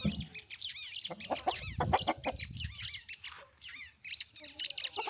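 Chickens clucking, with many short high chirping calls in quick succession.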